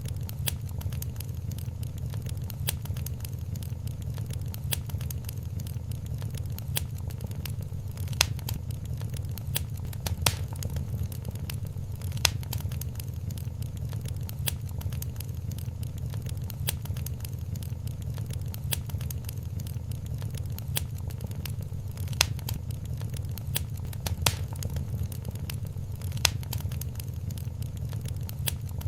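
Wood fire crackling in a fireplace: a steady low rumble under frequent small snaps and pops, with a louder pop every couple of seconds.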